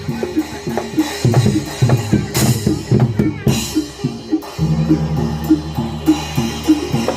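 Barongan Blora accompaniment: a Javanese gamelan-style ensemble playing, with hand drums struck quickly under a fast repeating pattern of pitched metal notes and a low sustained tone.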